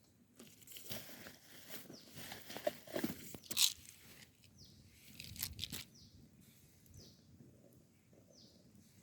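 Crunching and crackling handling noises with a few sharp snaps, loudest a little past the middle. In the last few seconds a bird calls in a series of short falling chirps, about one a second.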